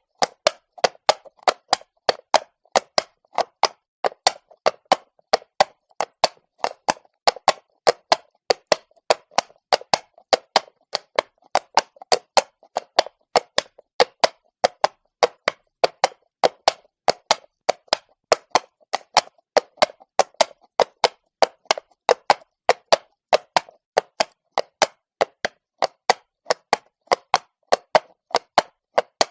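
Horse's hooves striking stone cobbles at a walk: sharp, clopping hoof strikes at about three to four a second in a steady rhythm.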